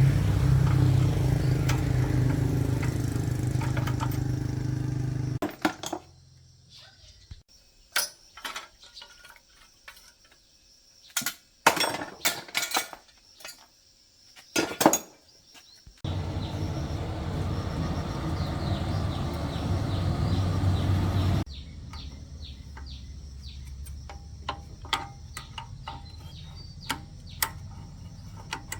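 A motor runs steadily for about five seconds and stops, then metal parts and tools clink and tap in separate knocks; the motor runs again for about five seconds in the middle, followed by more light clinks.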